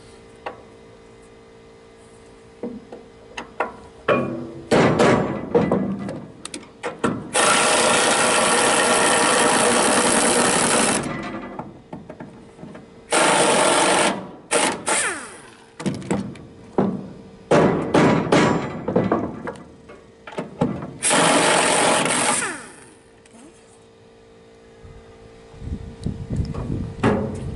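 Power drill running in repeated bursts, stopping and starting: a few short spurts, then a steady run of about three and a half seconds, then several more short runs and one of about a second and a half near the end.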